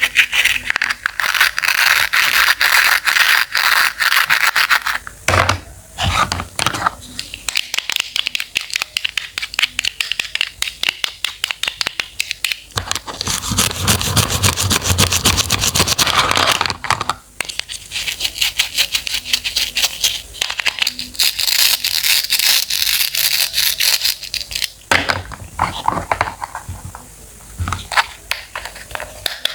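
Blade cutting and scraping through fresh produce in rapid repeated strokes, many a second, in several stretches with brief pauses between them.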